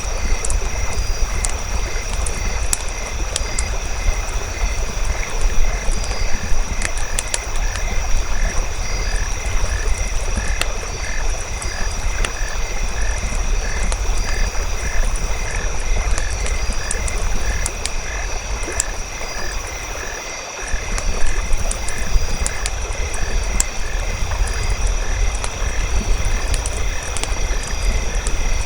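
Campfire crackling in a nature ambience, with frogs croaking in a regular series of about two calls a second from a few seconds in. A steady high-pitched tone and a low rumble run underneath.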